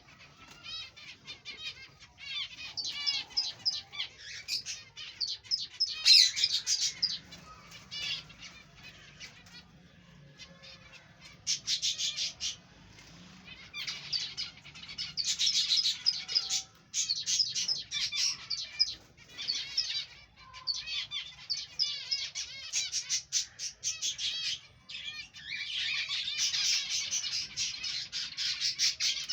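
A colony of aviary finches chirping and calling over one another in busy bursts of short, high notes, with brief lulls between.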